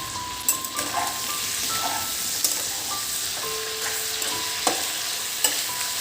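Food sizzling as it fries in a pan, with a few sharp clicks of a utensil stirring. Soft background music with a simple melody plays over it.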